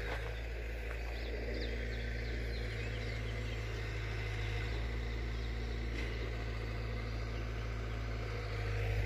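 A heavy machine's diesel engine running steadily with a low, even hum, with small birds chirping briefly over it.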